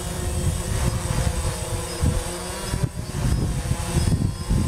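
DJI Phantom quadcopter hovering, its propellers giving a steady hum, with gusty wind buffeting the microphone in a loud, uneven low rumble.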